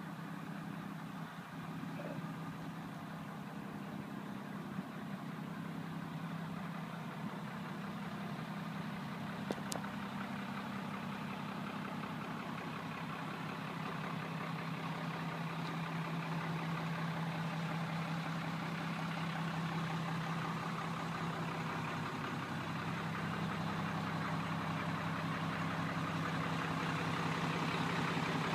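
A 1991 Ford F600 truck's engine idling steadily, gradually growing louder, with one short sharp click about ten seconds in.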